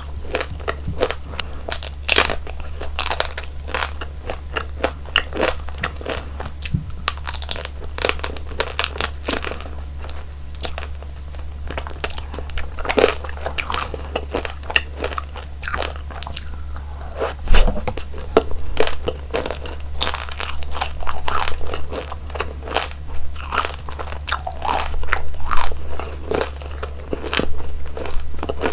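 Close-miked ASMR eating: a person repeatedly biting and chewing crunchy jelly and ice cream desserts, with many sharp, irregular crunches, over a steady low hum.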